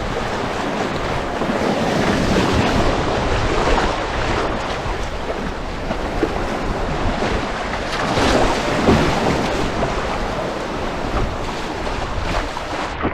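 Whitewater rapids rushing loudly around a canoe as it runs through them: a steady, dense noise of churning water.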